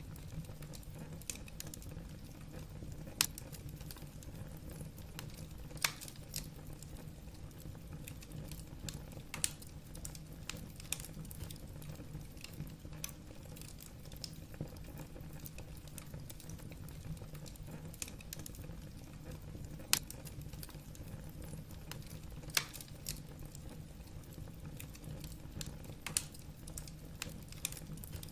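Wood fire burning in a fireplace: a steady low rumble of the flames with irregular crackles of the burning logs and a few louder pops.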